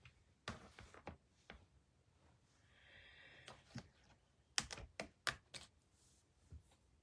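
Faint clicks and taps from paper and cutting tools being handled, with a brief rustle near the middle and a quick run of sharper clicks a little past halfway.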